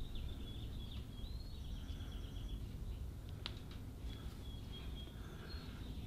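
Birds chirping outdoors with repeated short high notes and one brief rising whistle, over a low steady background rumble; a single sharp click about three and a half seconds in.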